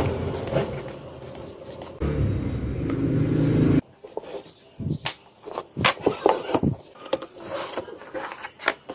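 A low rumbling noise that cuts off suddenly about four seconds in, followed by irregular sharp knocks and scrapes of wooden pieces being handled and fitted together.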